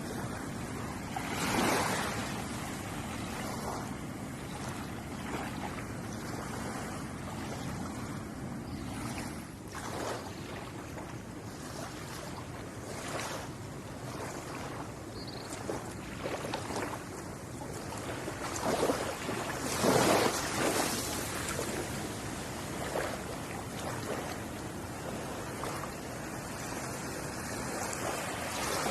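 Ocean waves washing onto a shore: a steady rush of surf with louder surges as waves break, the biggest about twenty seconds in.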